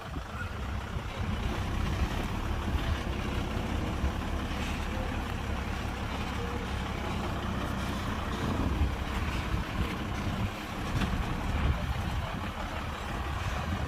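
Heavy diesel earthmoving machinery running steadily, a low engine rumble with a few faint knocks.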